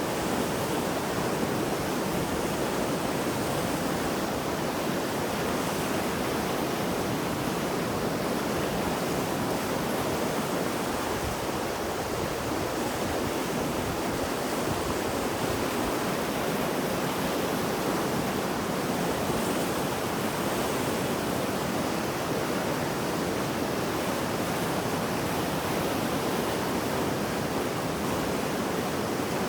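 Mountain river in flood after heavy rain, its water rushing at a steady level.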